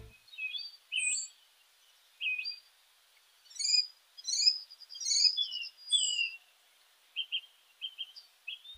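Morning birdsong: several small birds chirping, with a string of short whistled chirps and quick falling notes that crowd together in the middle, then short clipped chirps near the end.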